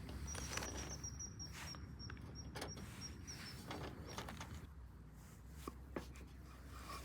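Scattered light clicks and knocks of camp cooking gear being handled, with a thin high-pitched steady tone in the first three seconds or so.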